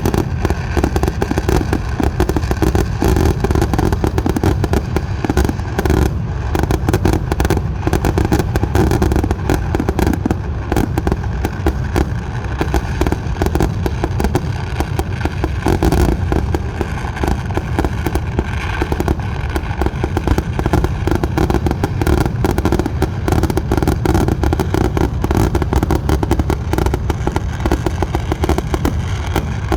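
Fireworks display in a dense, continuous barrage: many explosions overlapping so closely that they merge into an unbroken rattle of bangs over a heavy rumble.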